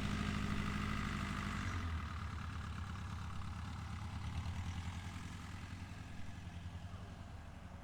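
Tractor engine idling steadily. A steady hum in it drops out about two seconds in, and the whole sound fades away gradually.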